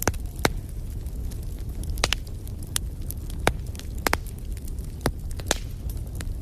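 Wood fire in a fireplace crackling: sharp, irregular pops over a steady low rumble of burning.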